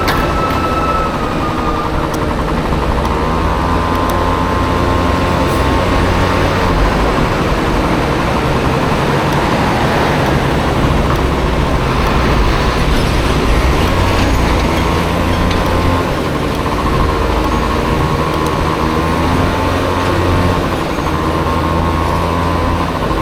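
Honda Dio scooter engine in a Honda Motocompo running on the move, its whine rising and falling in pitch as the throttle changes, over a steady low rumble.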